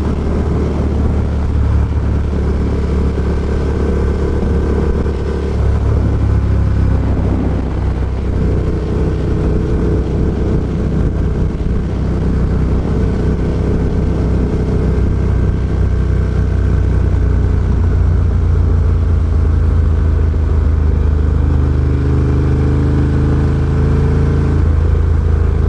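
Ducati Diavel Carbon's V-twin engine running through an Austin Racing GP2 aftermarket exhaust while being ridden, heard through a microphone inside the rider's helmet. The engine note is steady and loud, stepping up and down several times as speed and gears change.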